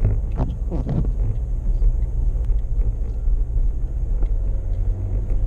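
Steady low rumble of a car driving uphill, heard from inside the cabin. Near the start there is a brief falling sound.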